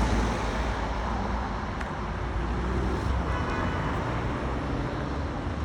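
Road traffic noise with a heavy vehicle's low engine rumble, easing slightly after the start. A click comes about two seconds in, and a brief high tone about three and a half seconds in.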